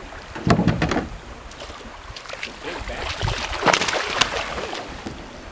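Water splashing around a kayak while a big hooked bass is fought: two bursts, one about half a second in and a louder one near the four-second mark.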